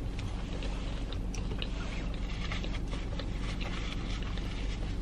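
Close-up chewing of a crunchy Flaming Hot Cheetos-crusted Korean fried cheese stick, many small crisp crackles as the coating breaks, over a steady low hum.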